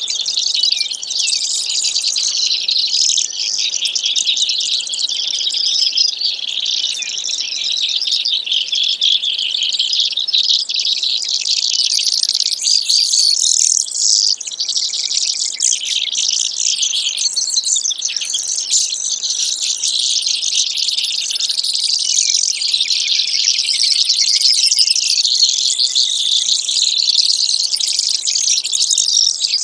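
Brewer's sparrow singing a long, unbroken run of rapid, high-pitched notes.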